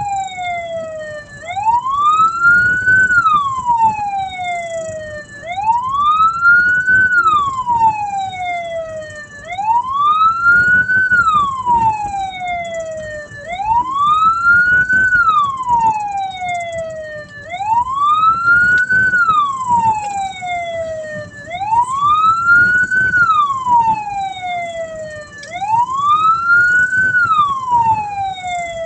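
Hearse's siren wailing in a slow repeating cycle, rising over about a second and a half and falling over about two and a half seconds, about once every four seconds, over a low vehicle rumble.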